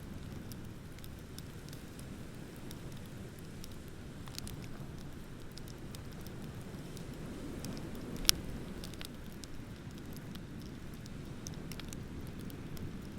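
Beach bonfire crackling, with scattered small pops and one sharp, loud pop about eight seconds in, over a steady low rumble of ocean surf.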